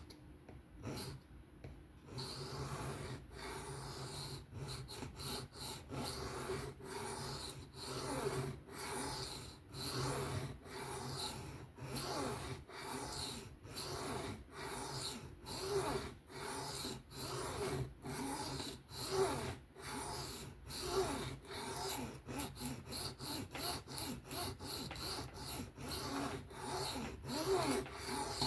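Knife blade scraping across a sharpening stone in repeated freehand strokes. The strokes come at a steady rhythm of about one to two a second and get quicker in the second half. This is the edge being worked on its second side after a burr was raised on the first.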